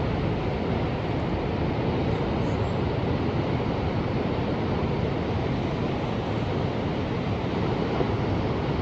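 Ocean surf: a steady, even rush of waves with no single wave standing out.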